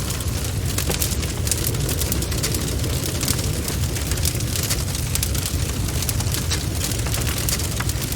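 Bonfire crackling, with many sharp irregular pops and snaps of burning wood over a steady low rumble.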